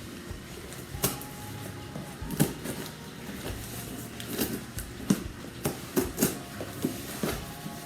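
Cardboard delivery box being opened and handled: irregular knocks, clicks and scrapes, about a second apart and several in quick succession in the second half.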